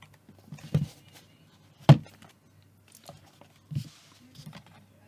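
A laptop and its packaging being handled and set down on a hard surface: three thuds about a second apart, the loudest about two seconds in, with light rustling and small knocks between.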